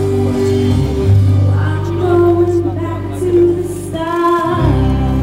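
A woman singing with instrumental backing music, holding long notes over a steady bass.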